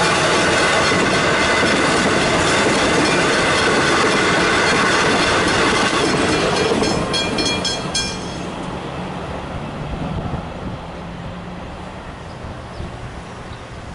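Melbourne suburban electric train passing over a level crossing, its wheels clattering on the rails, while the crossing bells ring continuously. About eight seconds in, the train has gone and the bells stop as the boom gates begin to rise, leaving quieter road traffic noise.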